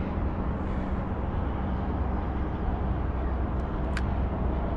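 Steady low engine rumble of city traffic, with two brief sharp clicks near the end.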